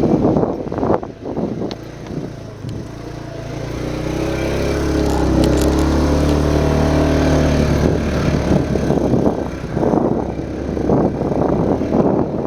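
Vehicle engine revving hard under load on a steep, rough climb. Its pitch rises from about three seconds in, holds, and eases off after about eight seconds, with rough, gusty noise before and after.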